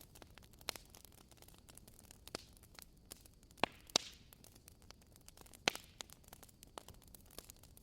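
Wood fire crackling: scattered sharp pops and snaps over a faint hiss, with a few louder pops around the middle.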